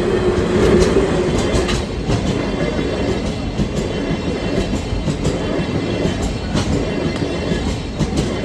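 Diesel train passing close by, its wheels clattering over the rail joints, loudest in the first couple of seconds and easing off near the end.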